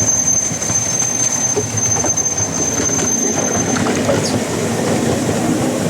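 Model railway train running along its track, with a thin high steady whine that cuts off about four seconds in.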